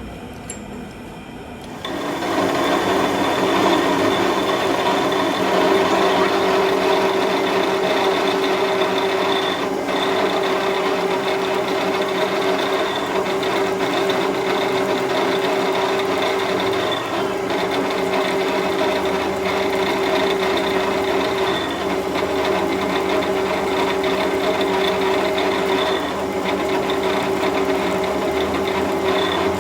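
A workshop machine tool running steadily with a constant motor whine over a cutting or grinding hiss. It becomes louder and steady about two seconds in.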